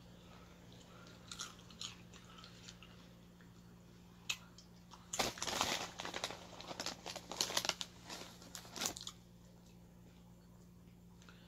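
Crunchy snack being chewed close to the microphone: a few light crackles early on, then a dense run of crunches lasting about four seconds in the middle.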